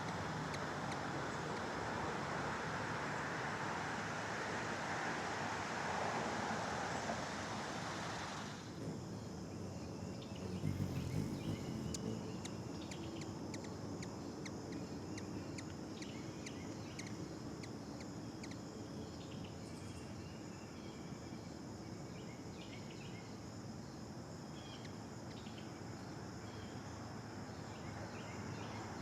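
A steady rushing outdoor noise that cuts off about eight seconds in. It gives way to a steady high drone of insects, probably crickets, with scattered faint bird chirps.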